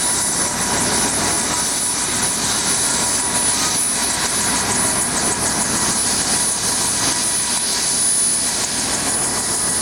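UH-1 Huey helicopter running close by: a loud, steady rush of turbine and rotor noise with a high, constant whine.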